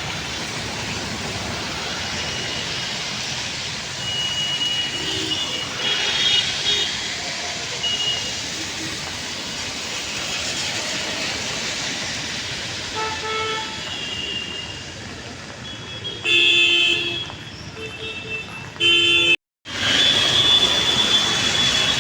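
Street traffic with vehicle horns tooting now and then over a steady hiss. The loudest horn blast comes about two thirds of the way in, and the sound cuts out for an instant shortly before the end.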